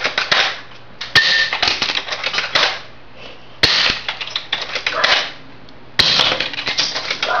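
Three shots from a 500 FPS airsoft sniper rifle, about two and a half seconds apart. Each sharp crack is followed by about a second of rapid clattering.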